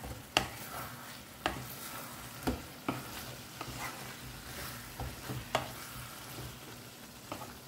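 Chicken frying in a kadai in its own released juices, sizzling steadily while it is stirred, with irregular clicks of the stirring utensil against the pan about once a second.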